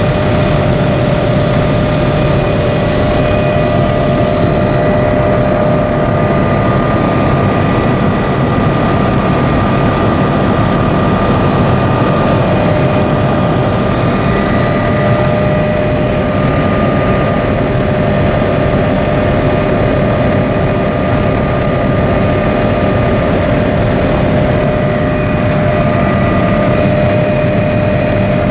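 Helicopter engine and rotor running steadily: a dense low drone with a steady whine over it, constant in level throughout.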